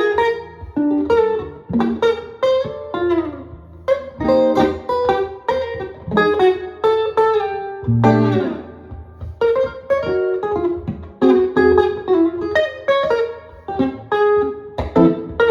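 Solo jazz guitar playing chord-melody style, mixing plucked chords and quick single-note lines over low bass notes.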